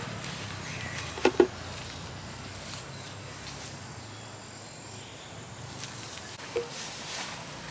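Quiet outdoor background with a few sharp knocks: a loud double knock about a second in and a softer one near the end.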